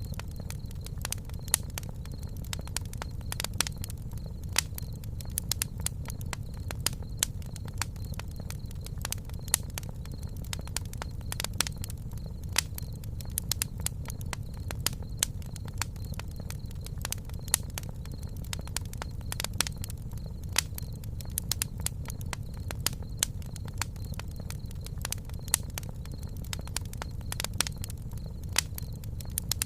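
Wood fire crackling: irregular sharp pops and snaps, several a second, over a steady low rumble, with a faint steady high tone behind.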